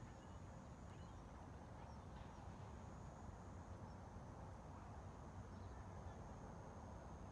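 Faint outdoor ambience: a steady low rumble with a thin, steady high tone, and a few faint short chirps now and then.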